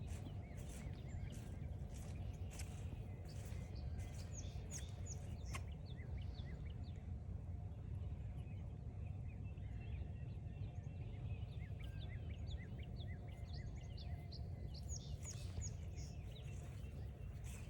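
Wild birds calling with many short, high chirps, densest through the middle, over a steady low background rumble. Footsteps on the trail tap in the first few seconds and again near the end.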